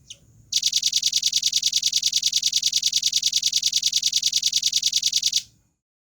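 Velvet-fronted nuthatch singing: a single short note, then a long, even, very fast high-pitched trill of about ten notes a second lasting about five seconds that stops abruptly.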